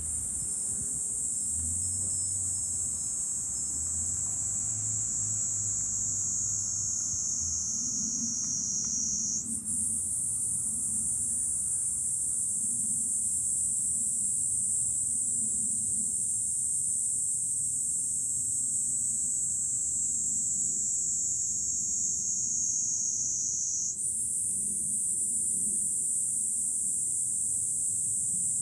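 Cicadas buzzing in a continuous dense chorus whose pitch sinks slowly, then jumps back up abruptly twice.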